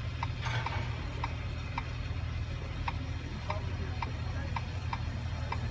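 Light, even ticking about twice a second over the steady low hum of a CAT 323 excavator's diesel engine idling.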